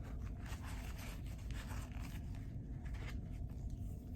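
Rustling and scraping handling noise close to the microphone over a steady low hum.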